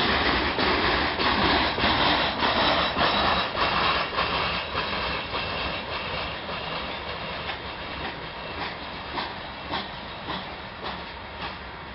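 Gravel freight train's cars rolling slowly past, their wheels clacking over rail joints in a steady rhythm with a hissing rumble. The sound fades over the second half.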